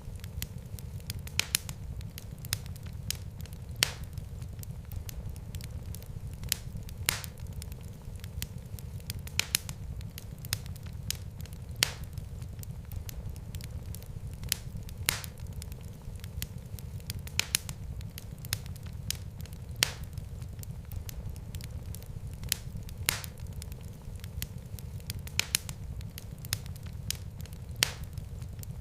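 Wood fire crackling in a fireplace: irregular sharp pops and snaps, several every few seconds, over a steady low rumble of burning.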